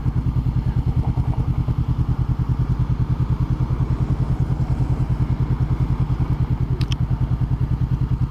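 Honda CBR500R parallel-twin motorcycle engine running steadily with an even, rapid pulse and no change in revs.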